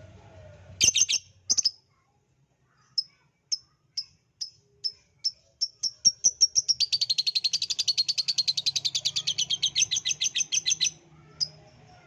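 Lovebird song: a few sharp high chirps, then single chirps that come faster and faster until they run together into a long, rapid chattering trill of about four seconds, closing with one last chirp.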